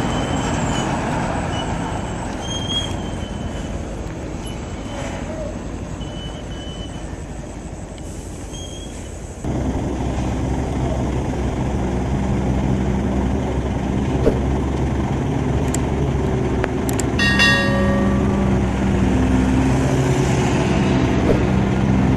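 Heavy truck engines running on the road. About halfway through the sound cuts abruptly to a louder, steady engine drone, and a short horn toot sounds about three-quarters of the way in.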